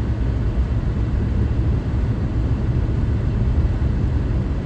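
Steady low rumble of a car driving, engine and tyre noise as heard inside the cabin.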